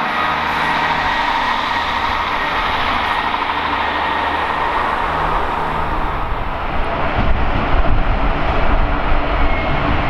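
A passenger train running past on the station lines, a steady rushing sound with a faint whine. About six seconds in it gives way to a deeper, uneven rumble that grows a little louder.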